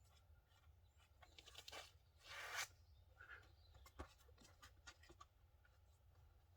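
Faint scuffing and tapping of a climber's shoes and hands on a sandstone boulder, with one louder short scrape about two and a half seconds in and a sharp tap about four seconds in.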